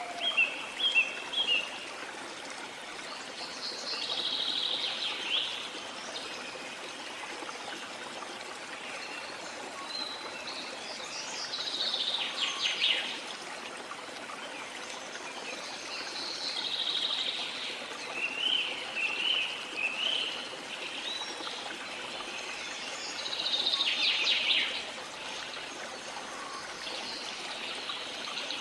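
Songbirds chirping and trilling in short phrases every few seconds over a steady wash of water.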